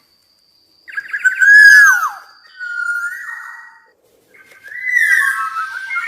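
Black-naped oriole singing: three phrases of loud fluty whistles. The first, about a second in, ends in a strong falling slur, and a softer rising whistle follows.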